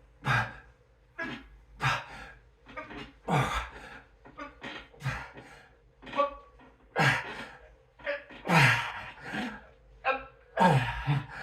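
A man grunting and breathing out hard in short bursts, about one a second, as he strains through a set of heavy weight-lifting repetitions.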